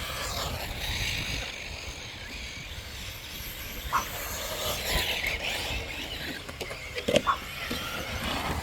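Radio-controlled short course trucks racing on the track, their motors whining up and down in pitch as they pass, over a low rumble.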